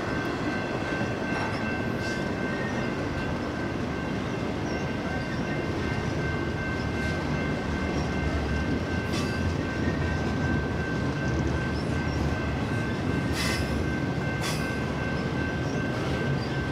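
Intermodal freight train's loaded well cars rolling past: a steady rumble of steel wheels on rail, with a thin steady high whine and a few sharp clicks.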